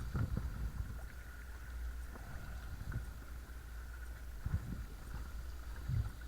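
Watersnake T24 12 V electric trolling motor running with a steady thin whine, against a low rumble of water and wind. There are a few dull low thumps, one near the start and two in the last couple of seconds.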